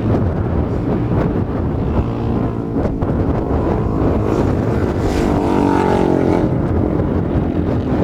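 Racing motorcycle engines running hard, several at once, their pitch sliding up and down as the bikes go by.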